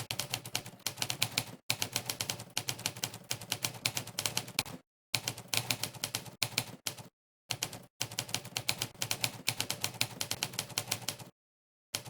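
Monkeytype's typewriter keystroke sound effect playing with each keypress: rapid runs of crisp typewriter key clacks, several a second, broken by two short pauses and stopping a little before the end, with one last clack just before the close.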